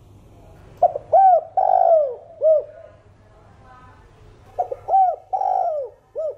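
Spotted dove singing its cooing song, two phrases a few seconds apart, each a couple of short coos running into a long arched coo and ending on one short coo. The call is of the 'thổ đồng' voice type, used by keepers as a calling song to set captive males cooing.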